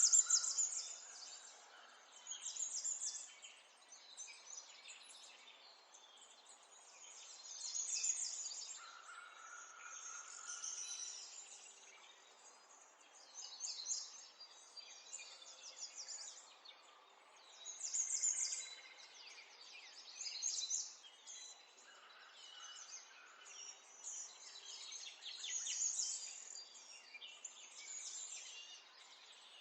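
Small songbirds chirping and twittering in quick, high trills, a burst of song every two or three seconds over a faint steady background hiss.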